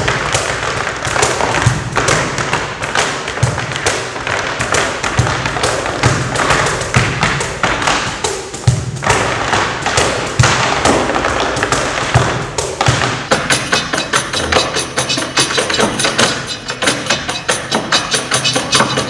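Tap shoes striking a stage floor in fast rhythms over percussion-led music, with repeated deep thumps. About two-thirds of the way through, the thumps drop away and the taps run on in a more even pattern.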